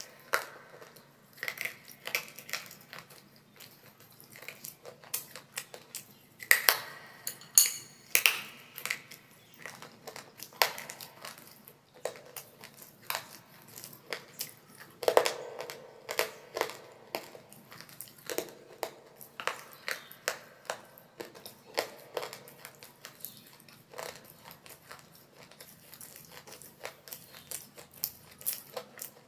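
Close-miked biting and crunching of brittle baked clay from a mini diya and a clay pot glass: irregular sharp cracks and crunches, several a second, with louder bites scattered through.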